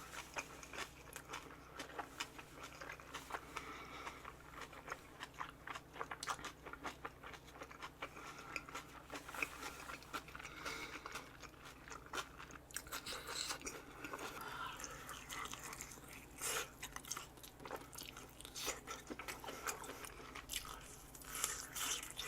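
A person chewing boiled pork bossam with kimchi and raw vegetables: many small crisp crunches and wet mouth clicks, one after another.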